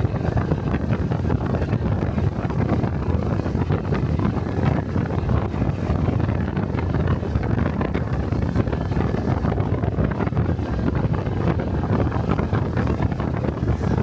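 Wind buffeting the microphone on a moving motorcycle, a steady low rumble, with the Honda 125 cc single-cylinder Cub engine running underneath.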